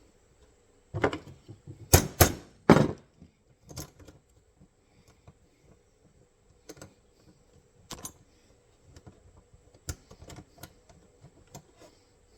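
Steel parts of an MB-550 foothold trap clicking and clanking as they are handled and worked into line. A cluster of four sharper metal knocks comes between about one and three seconds in, followed by scattered lighter clicks.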